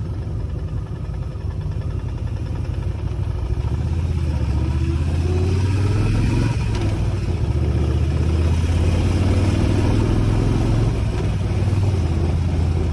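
Motorcycle engine running under way, getting louder and pulling harder about four seconds in, then holding a steady drone.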